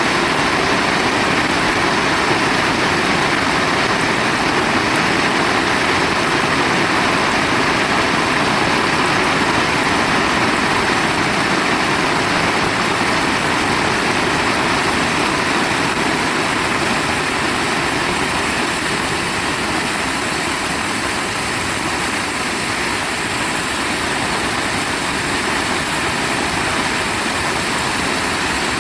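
Heavy rain falling: a loud, steady hiss with no let-up.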